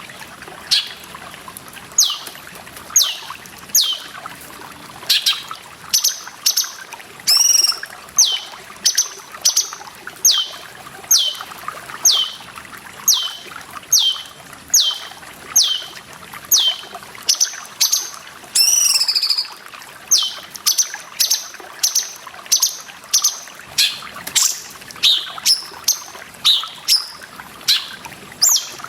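Cucak cungkok bird calling: a steady series of sharp whistled notes, each sweeping down in pitch, about two a second. A longer warbling call comes about 7 seconds in and another about 19 seconds in, over a continuous trickle of water.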